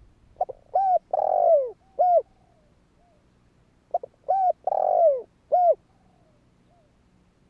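Spotted dove cooing: two song phrases about three and a half seconds apart, each a couple of short coos, a longer falling coo and a final short coo.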